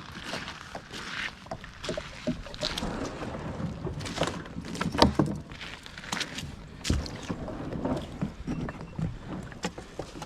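Kayak being paddled: water splashing with irregular knocks against the hull, the loudest about five seconds in.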